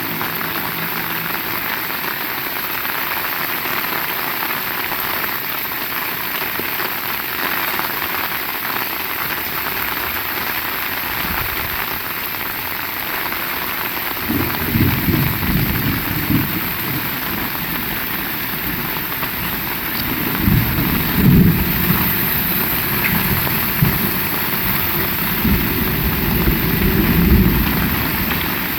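Heavy rain falling steadily, a dense even hiss of drops on surfaces. In the second half, low rolls of thunder rumble three times.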